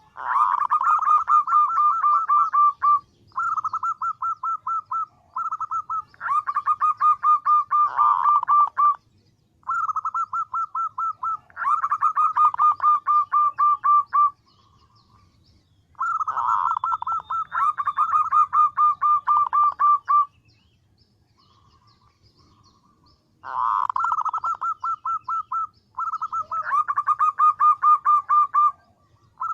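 Female zebra dove (perkutut) calling to males: rapid runs of short, evenly repeated notes, each run lasting a few seconds, with brief pauses between runs and one longer pause a little past the middle.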